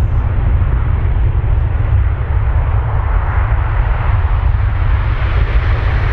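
Jet airliner engines at takeoff power: a loud, steady deep rumble under a rushing noise that grows brighter and higher from about halfway through.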